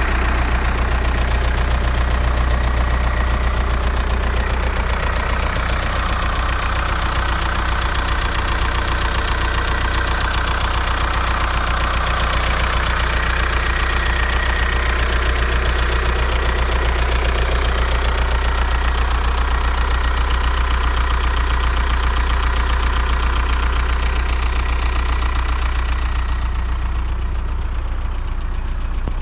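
Stock 1.9 TDI four-cylinder turbodiesel engine idling steadily, with no change in engine speed.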